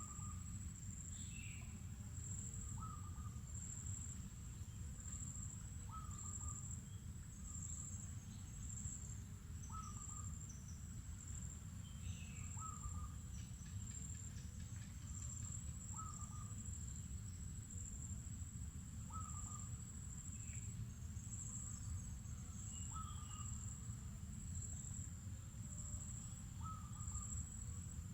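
Steady, high-pitched drone of insects, with a bird repeating a short falling call about every three seconds and a few scattered higher chirps, over a steady low rumble.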